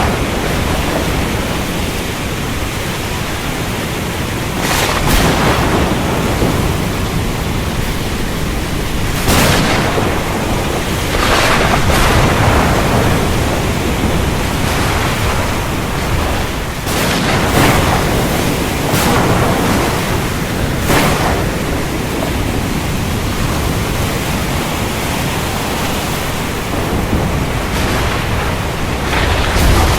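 Heavy rain falling steadily with a deep rumble of thunder. Sharp thunder cracks break through about every few seconds, around seven in all.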